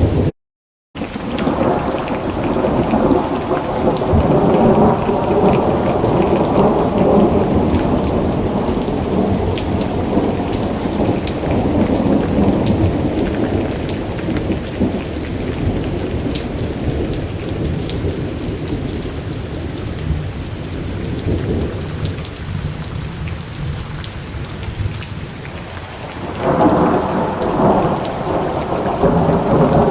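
Thunderstorm: steady rain with thunder rolling. A long rumble swells over the first several seconds and slowly dies away, then another peal breaks in suddenly near the end; the sound cuts out completely for a moment just after the start.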